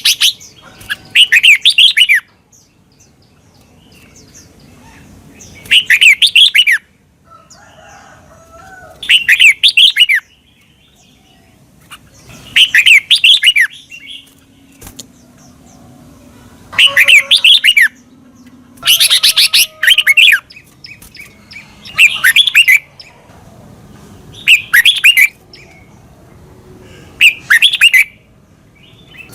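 Red-whiskered bulbul singing: short, quick warbling phrases of about a second each, repeated every two to four seconds.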